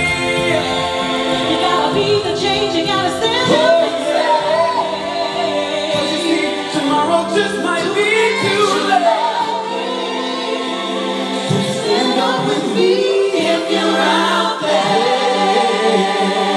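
A cappella vocal group singing in harmony: several voices moving over a long-held low note, with no instruments.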